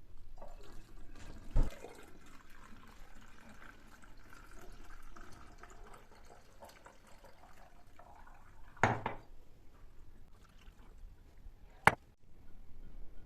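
Liquid pouring into a container for several seconds, broken by three sharp knocks or clinks.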